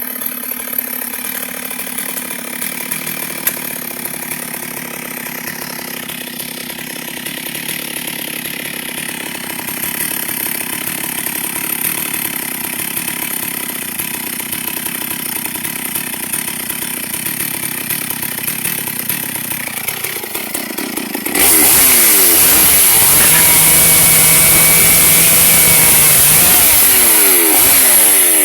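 Chainsaw cutting albizia wood. For about twenty seconds it runs at a steady, moderate level. Then it suddenly throttles up to full revs and bites into the wood, much louder, its pitch wavering under load.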